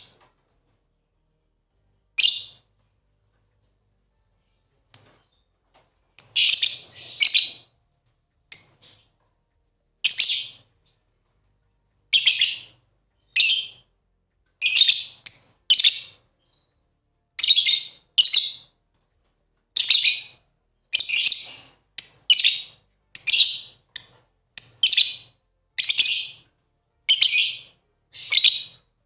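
Pet lovebirds calling in short, shrill chirps, about one a second, some coming in quick pairs or clusters.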